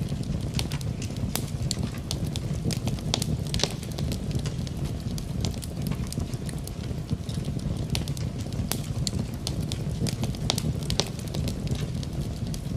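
Wood fire in a fireplace crackling, with frequent irregular sharp pops and snaps over a steady low rumble, mixed with a soft hiss of rain.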